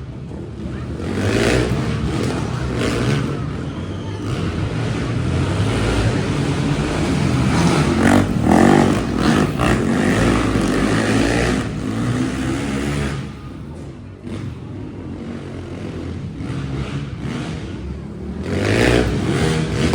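Monster truck engines revving hard during a race, the engine note rising and falling in surges. It is loudest about eight to nine seconds in, eases off around thirteen to fourteen seconds, and surges again near the end.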